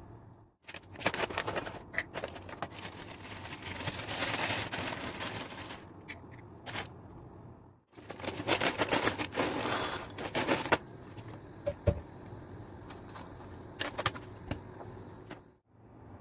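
Household handling sounds: rustling, clattering and quick clicks from objects being moved about, in three short clips with sudden cuts between them.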